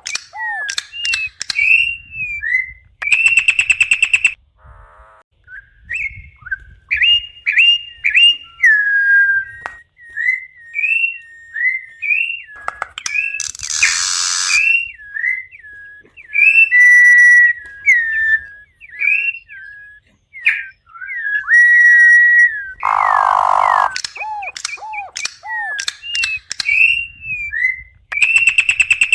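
Campo troupial (corrupião) singing: loud, clear whistled notes that slide up and down in repeated phrases, broken now and then by a short harsh, rasping note.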